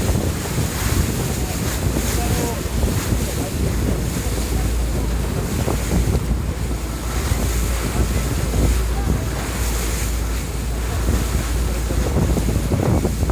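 Wind buffeting the microphone on a moving sightseeing boat, over a steady low rumble and the rush of water.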